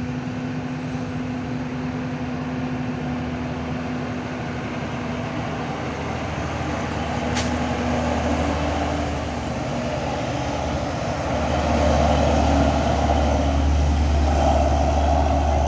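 Heavy truck engines labouring up a steep hill, a low steady rumble that grows louder about twelve seconds in as a truck draws closer, over a constant wash of rain and road noise.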